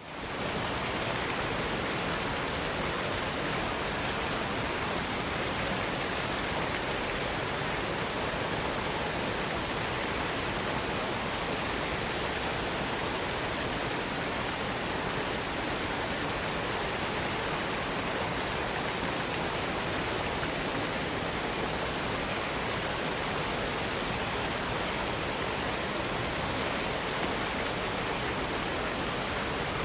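Waterfall: water falling in a steady, unbroken rush, fading in at the very start.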